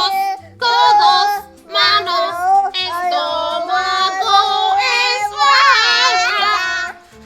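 Children singing a simple children's song in Spanish in sung phrases, with a short break about half a second in. The singing stops just before the end.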